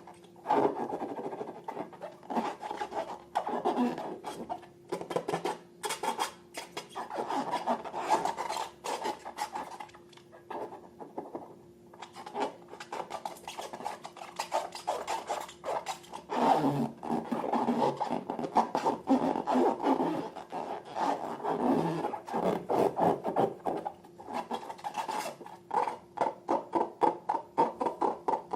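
Slime being squished and stirred, a continuous run of quick sticky clicks and squelches that eases off briefly near the middle.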